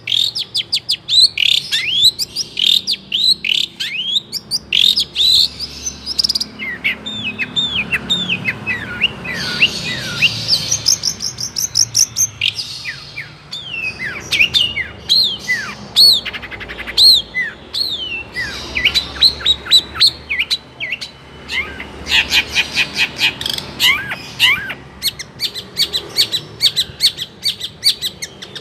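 Long-tailed shrike (cendet) singing a continuous, rapid, varied song of chirps and downward-sweeping whistles, broken by fast twittering trills. Its song is packed with imitations of other birds, swiftlet calls among them.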